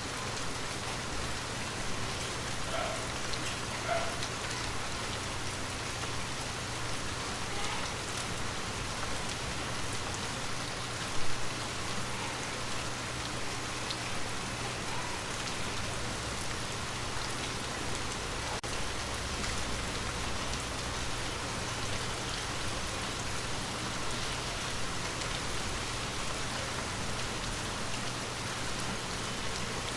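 Steady light rain falling on a window, with scattered drops ticking and one louder tap about eleven seconds in.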